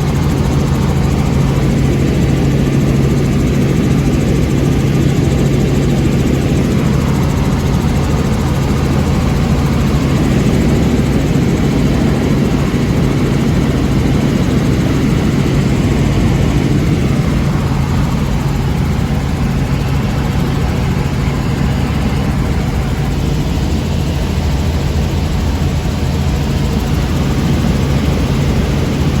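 Helicopter engine and rotor running steadily in flight, a loud constant drone with a strong low hum.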